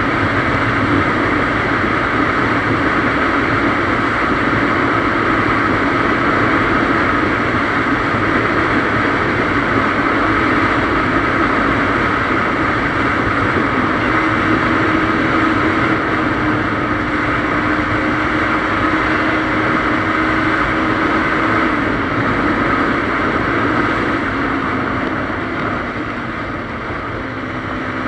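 KTM Duke 390's single-cylinder engine running at a steady cruising speed under steady wind and road noise, easing off slightly near the end.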